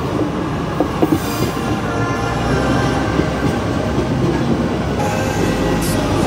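Trains moving through a station: a steady rumble of wheels on the rails, with a faint squeal of wheels on track.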